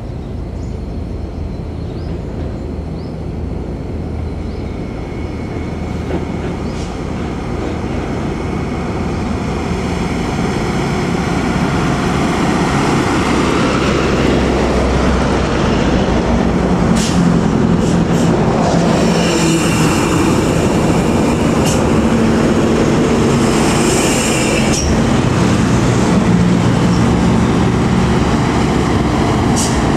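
Heavy diesel road traffic: large bus or truck engines and tyre noise rumbling past, growing steadily louder through the first half and then holding.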